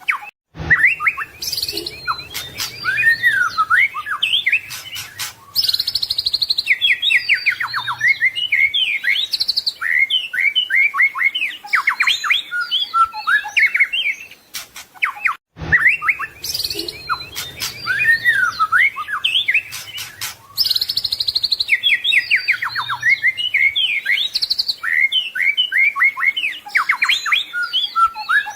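White-rumped shama (murai batu) singing a fast, varied song of whistles, trills and chattering notes, packed with mimicked phrases. The same passage of about fifteen seconds plays twice, with a short break and a click at each restart: a looped training recording.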